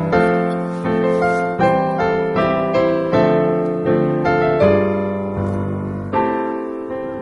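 Background piano music: a gentle melody of single notes about every half to three-quarters of a second, each one fading.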